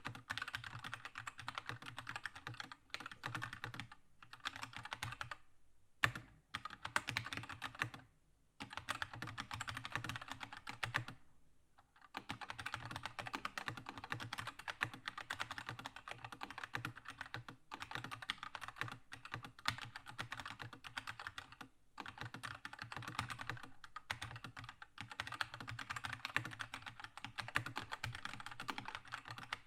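Fast, continuous typing on a Keychron K2 mechanical keyboard with red linear switches: a dense patter of key clicks and bottom-outs, pausing briefly about five, eight and eleven seconds in.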